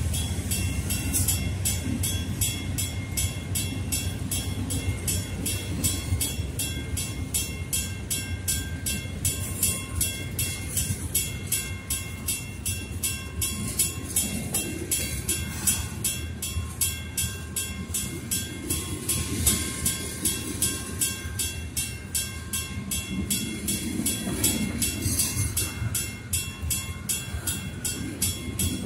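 Freight cars rolling past: a steady rumble of steel wheels on rail, with a grade-crossing warning bell ringing in a quick, even beat over it.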